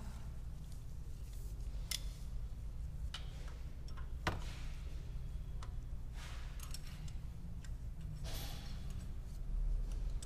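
Scattered metallic clicks and taps from a wrench and angle gauge on the cylinder head bolts of a Ford Fiesta 1.6 8v Zetec Rocam engine, during angle-torque tightening of the head, over a steady low hum. The sharpest click comes about four seconds in, and a short scraping rasp follows a little past eight seconds.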